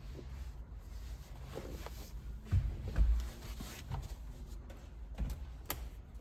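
Scattered clicks and knocks of parts being handled, with two heavier thumps about two and a half and three seconds in.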